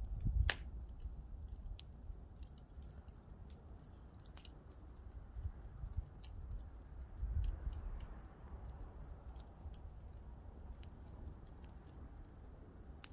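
Campfire crackling: wood popping in scattered sharp snaps, one louder pop about half a second in, over an uneven low rumble that swells briefly about halfway through.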